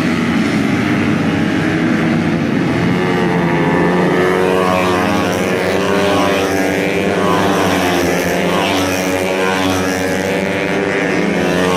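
Several two-stroke racing motorcycle engines running at high revs, their buzzing pitches rising and falling and overlapping as they rev.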